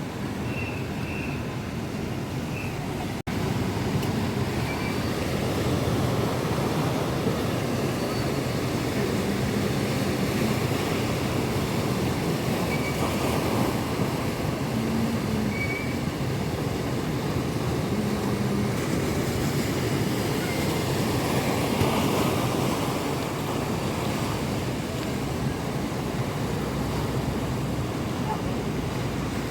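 Rough monsoon sea: waves surging and breaking in a steady roar, with wind blowing. A brief break in the sound about three seconds in, after which it runs on slightly louder.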